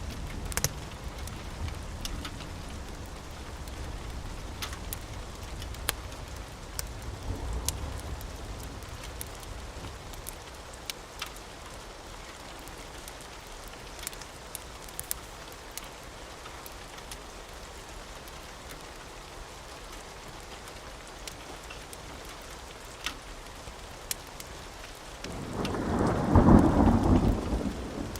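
Steady rain falling, dotted with scattered sharp ticks. A low thunder rumble fades over the first several seconds. Near the end a loud thunderclap rolls for two or three seconds.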